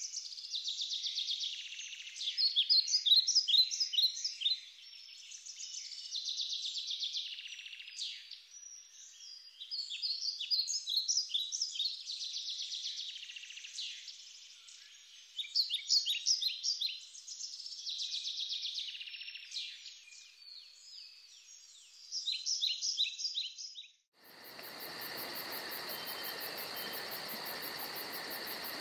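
A songbird singing phrase after phrase of high chirps and quick trills, each lasting one to two seconds with short gaps between. A few seconds before the end the birdsong cuts off abruptly and is replaced by a steady, high insect chirring with a fast, even pulse.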